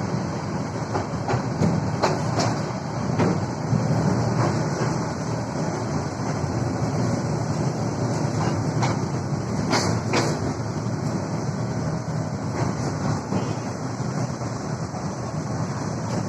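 Moving train running on the rails: a steady rumble with a few sharp clacks from the wheels, the two loudest close together about ten seconds in.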